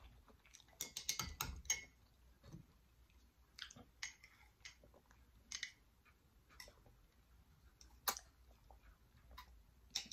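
Faint eating sounds close to the microphone: scattered wet lip smacks and chewing clicks, with one sharper click about eight seconds in.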